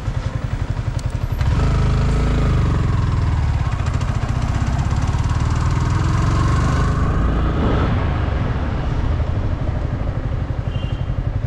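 Yamaha R15 V3's single-cylinder engine running on the move, growing louder about a second and a half in and easing back near eight seconds.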